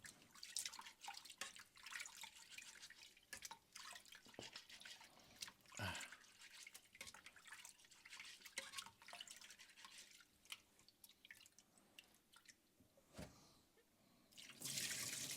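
Water dripping and splashing in small irregular drops while rice is rinsed and strained. Near the end, water starts running steadily, as from a tap.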